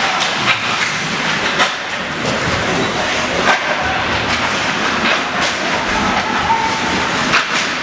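Ice hockey play: skates scraping and carving the ice in a steady hiss, with sharp clicks of sticks and puck scattered throughout.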